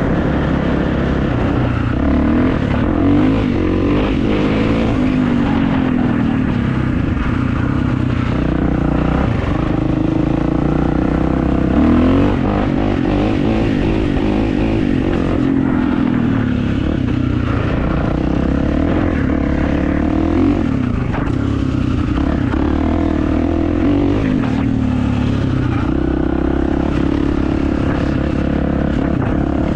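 Kawasaki motocross motorcycle engine running under way, its revs repeatedly rising and falling.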